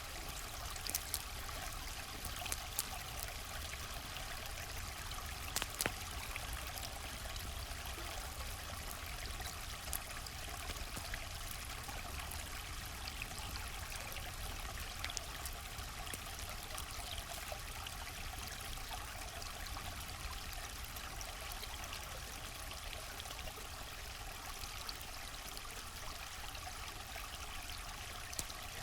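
River water flowing steadily, with a few sharp campfire crackles and pops, the loudest about 1, 3 and 6 seconds in.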